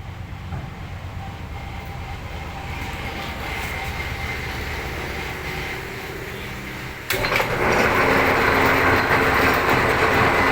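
Metal lathe running while cutting a square thread. About seven seconds in, a much louder harsh cutting noise sets in abruptly as the tool bites into the steel workpiece.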